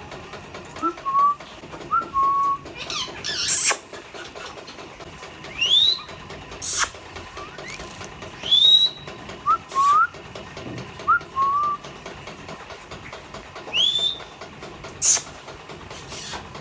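Indian ringneck parrots whistling and calling: many short whistled notes, some sweeping sharply upward, broken by about five brief harsh screeches.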